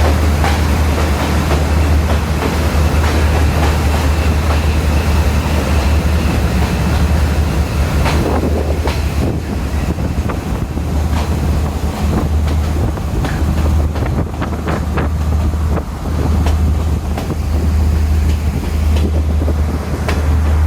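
Diesel intercity train, powered by MTU 12V 4000 engines, running along the line: a steady low engine drone under a rushing noise. From about eight seconds in, the wheels click over rail joints.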